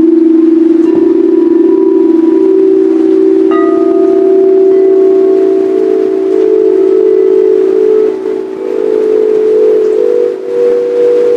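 Singing bowls ringing: a loud, sustained hum that wavers with a slow beat, joined around halfway by a second, higher held tone. Other bowls are struck about a second in and again at about three and a half seconds, each strike ringing on.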